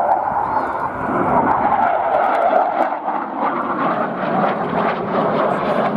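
Loud, steady engine noise from an aircraft flying past at an air show, a dense rushing sound with no clear pitch.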